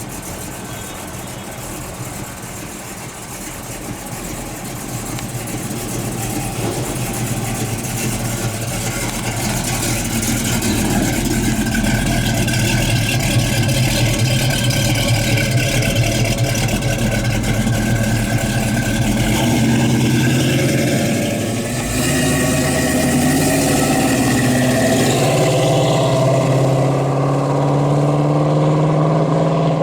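1970 Ford Mustang Fastback's engine running and pulling, its pitch rising and shifting as it is driven, with a marked change in the engine note about 22 seconds in.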